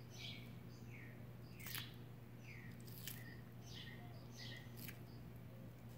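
Small birds chirping faintly, short downward-sliding chirps about twice a second, over a steady low hum. Three sharp, crisp crunches come in between, as an ornate box turtle bites into romaine lettuce.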